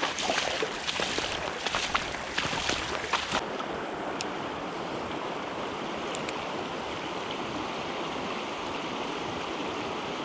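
Steady rush of a full, flowing creek. Irregular sharp crackles in the first three seconds or so, then only the even water noise with a couple of single clicks.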